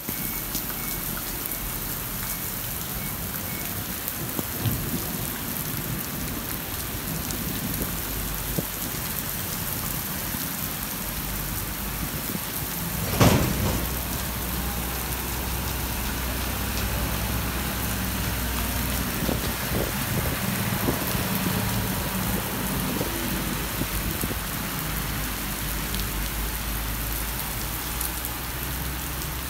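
Heavy rain falling steadily on a waterlogged street and pavement. A single sharp crack of thunder comes about a third of the way in, followed by a low rumble under the rain.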